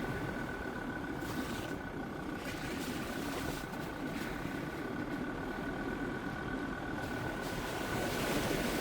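Jeep Grand Cherokee WJ's 2.7 CRD five-cylinder turbodiesel running under way off-road, a steady engine and driving noise with a thin constant high whine over it.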